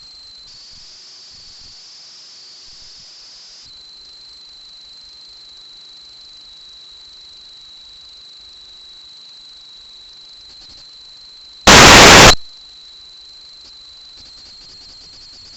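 Steady electronic hiss with a thin high whine, cut about twelve seconds in by a sudden, very loud burst of static lasting under a second.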